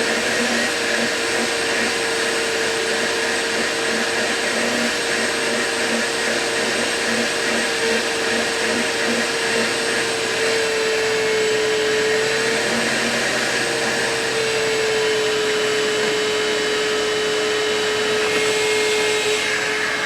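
Vacuum cleaner running steadily, with a continuous motor whine that dips slightly in pitch now and then.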